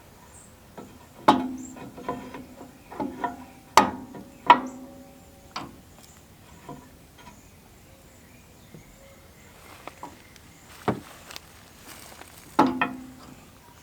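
Metal parts clanking and ringing as they are handled and knocked together: several sharp knocks in the first half, then two more near the end.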